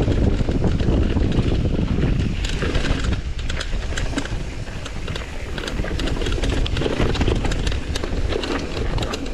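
Mountain bike riding downhill on a dirt trail: wind buffets the microphone while the bike rattles and the tyres crackle over rocks and dirt. The wind rumble eases about two and a half seconds in, leaving mostly clicking and rattling.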